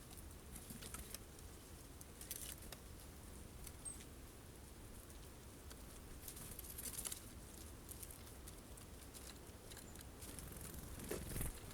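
Faint, irregular tapping and rustling of birds feeding at a bird feeder stocked with sunflower seeds, with a louder cluster of taps near the end.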